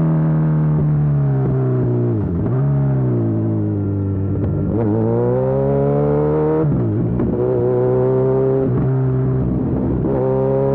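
Kawasaki Z1000SX inline-four engine running through a Lextek full exhaust under way. The pitch climbs with the throttle and drops sharply at gear changes about two, seven and ten seconds in.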